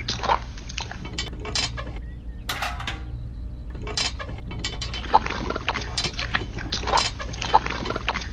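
Mini model tractor's small geared mechanism clicking and clattering over a steady low hum, with a sharper knock a couple of seconds in.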